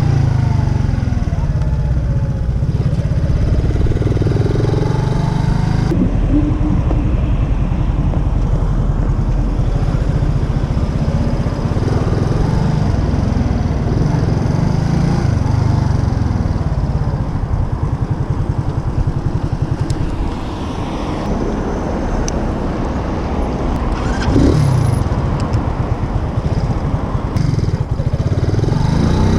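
Racer Alpha RC50 moped's 50 cc four-stroke single-cylinder engine running under way, its pitch rising and falling with throttle and gear changes, with wind rushing over the microphone.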